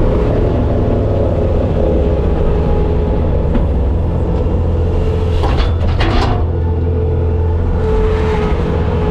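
Bobcat skid steer's diesel engine running steadily with a heavy low rumble. A brief burst of higher noise comes over it a little after halfway.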